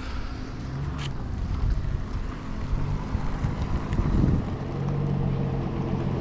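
A vehicle engine running steadily, with wind on the microphone and a sharp click about a second in.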